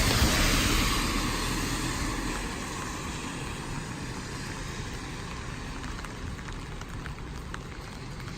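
A car passes on the wet road, its tyre hiss loudest at the start and fading away over the first few seconds. Steady rainfall with scattered drop ticks remains.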